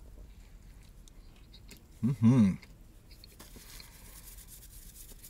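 A person chewing a mouthful of breakfast sandwich with faint soft crunching, close to the microphone. About two seconds in there is a short, loud hummed 'mm-hmm' of approval.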